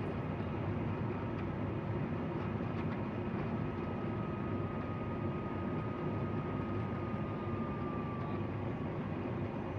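Cockpit noise of a Cessna Citation XLS+ business jet: a steady rumble of airflow and its Pratt & Whitney PW545C turbofans. A faint whine slowly falls in pitch from about halfway through.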